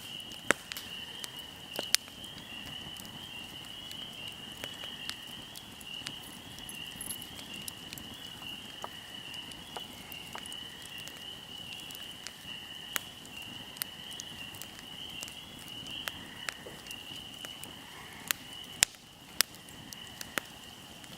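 Fire crackling, with scattered sharp pops and snaps over a soft steady hiss, and a continuous high-pitched insect trill behind it.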